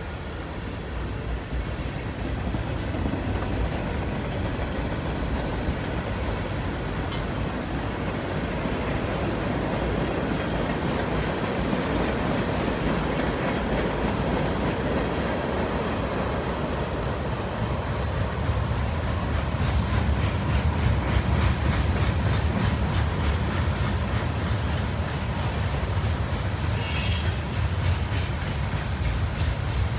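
Freight cars of a long Union Pacific manifest train rolling past, tank cars then steel coil cars: a steady rumble with the wheels clicking over the rail joints. The rumble grows louder a little past the middle, and a brief high squeak cuts through near the end.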